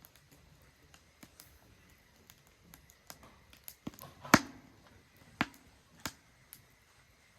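Wood fire in a Solo Stove Ranger fire pit crackling, with irregular sharp pops; the loudest comes about four seconds in, and two more strong ones follow within two seconds.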